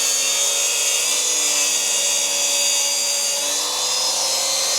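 HiKOKI 36V cordless track saw running through a cut: a steady high whine over the noise of the blade in the board, its tone shifting slightly as it goes.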